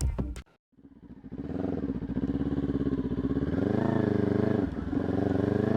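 Kawasaki Ninja 400 parallel-twin engine running under way, its revs rising and falling, with a brief dip about five seconds in. The end of the intro music is heard right at the start, cut off before the engine comes in.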